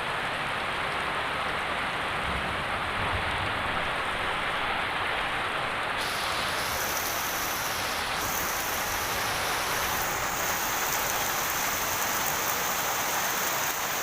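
Heavy rain pouring down steadily, a dense unbroken hiss; about six seconds in it turns brighter and harsher.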